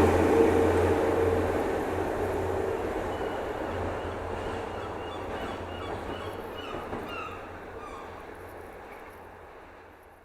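Diesel train of a Class 66 locomotive and rail grinders moving away: a low engine hum and rumbling wheel noise fade steadily from loud to faint, with a few faint short high squeaks in the middle.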